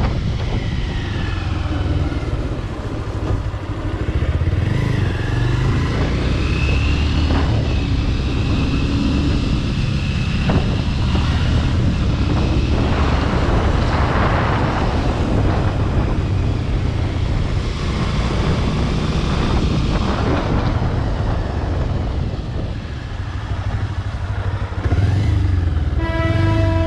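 Bajaj Pulsar RS200 motorcycle with a modified aftermarket exhaust, its engine running steadily under way on the road.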